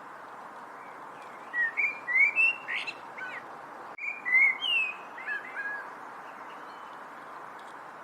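A songbird singing two short phrases of quick, sliding whistled notes, the first about a second and a half in and the second about four seconds in, over a steady background hiss.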